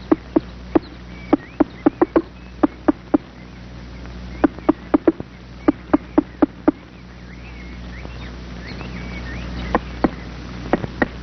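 Black woodpecker hacking at wood with its bill while excavating its nest hole: single sharp knocks at uneven intervals, not a drum roll. They come in bunches, with a pause in the middle and a few more blows near the end. Small birds chirp faintly in the background, over a low film hum.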